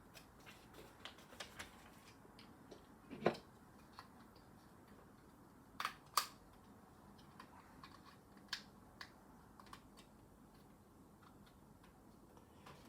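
Plastic Lego pieces clicking and tapping as they are handled and pressed together: scattered light clicks, the loudest about three seconds in and a close pair about six seconds in.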